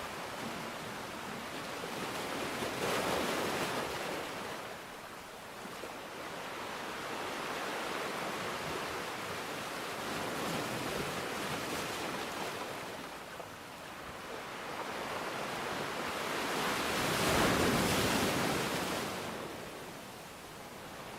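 Continuous rushing water noise that swells and ebbs in slow surges several seconds apart, the biggest surge about three quarters of the way through.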